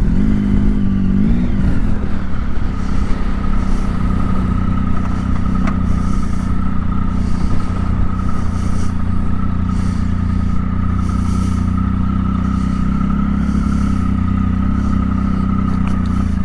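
Motorcycle engine running at a steady note, without revving up or down.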